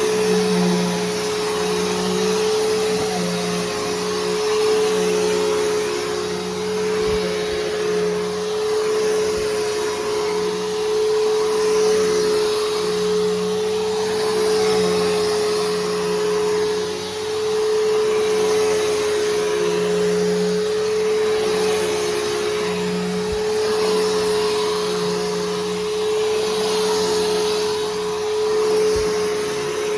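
Bissell Powerforce Helix Turbo upright vacuum running and vacuuming, a steady motor whine with the brushroll turning, its sound swelling and easing slightly with each push and pull.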